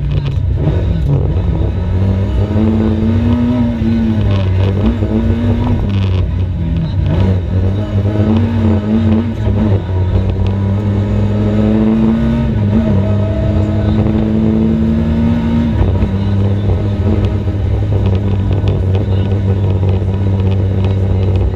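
Rally car engine pulling hard through the gears, its pitch climbing and dropping back at each shift over a steady low drone. The longest climb ends in a sharp drop about 16 seconds in.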